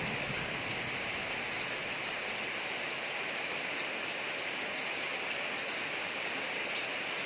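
Steady rain falling on a street: an even hiss with a few faint drip ticks.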